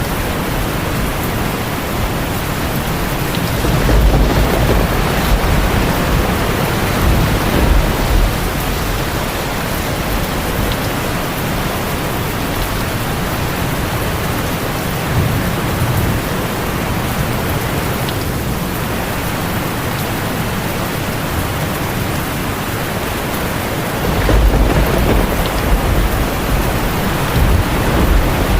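Heavy rain drumming steadily on a tin roof, with low thunder rumbling up a few times, the longest roll about two thirds of the way through.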